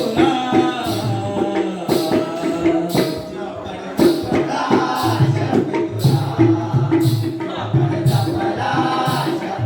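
Jakhadi folk music: a singing voice over jingling percussion, with strokes about once a second.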